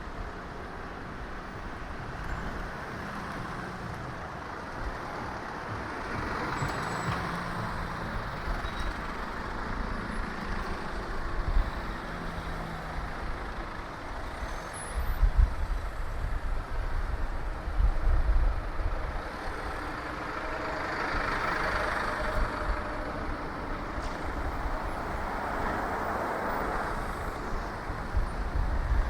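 Road traffic heard from a moving bicycle: a steady hiss of traffic, with vehicles swelling past about a quarter of the way in, again about two-thirds through and near the end. Short spells of deep rumble come in the middle.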